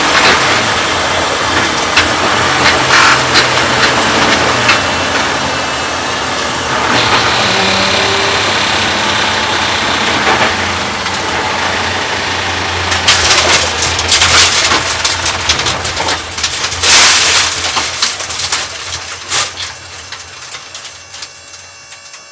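A track car heard from inside the cabin: rough engine and road noise with scattered sharp knocks and rattles, dying away near the end as the car slows.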